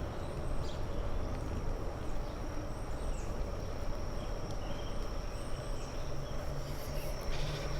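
Steady wind and tyre rumble of a bicycle rolling along a paved trail, with a thin, steady high-pitched tone running through it.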